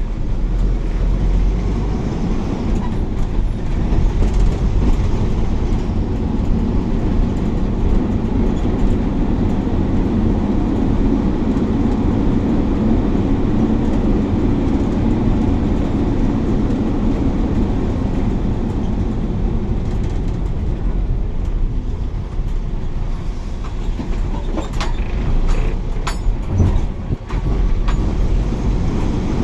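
A bus on the move, heard from inside the cabin: a steady low rumble of engine and road noise, with a few sharp rattles and knocks about three-quarters of the way through.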